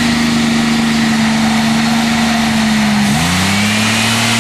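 GM 3.8-litre V6 car engine held at high revs by a piece of wood wedged in the throttle, running steadily. Just after three seconds in, the revs dip sharply and climb straight back up.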